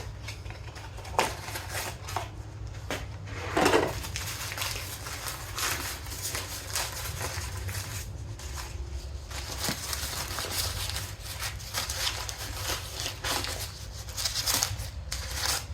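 Plastic packaging crinkling and rustling, with scattered light clicks, as a box of engine main bearings is opened and handled, over a steady low hum.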